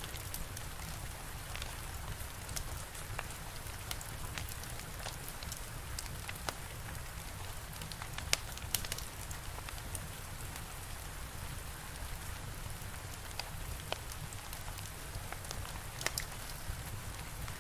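Steady rain hiss with a low rumble beneath, and sharp crackles and pops from a fire scattered throughout, one louder pop about eight seconds in.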